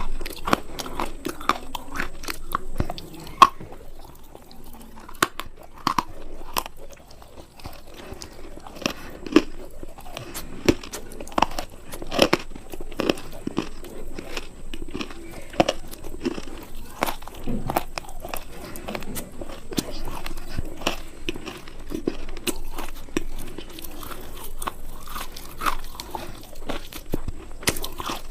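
Close-miked biting and chewing of a hard, crunchy sample: an irregular, continuous run of sharp crunches and crackles, several a second.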